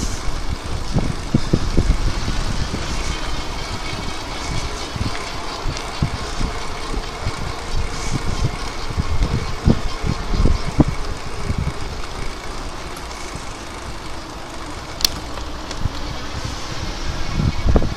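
Wind buffeting the microphone and tyre noise from an electric bike being ridden, with uneven low thumps throughout and one sharp click about fifteen seconds in.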